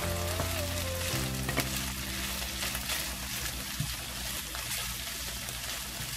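Beef and vegetables sizzling in a nonstick frying pan as they are stirred with a wooden spatula, with a steady hiss and a few light knocks of the spatula. Background music plays underneath.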